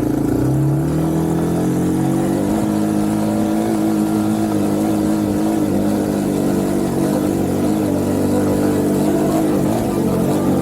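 Motocross motorcycle engine revving up over the first couple of seconds, then running at a nearly steady speed with small rises and dips.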